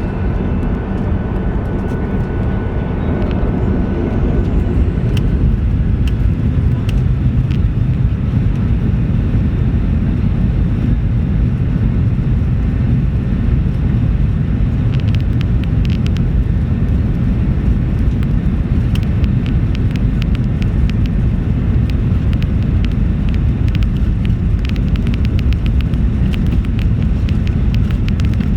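Jet airliner cabin noise inside a Ryanair Boeing 737-800: the steady, low-pitched rush of its CFM56 engines and airflow, getting louder about four seconds in, with light rattles of cabin fittings later on.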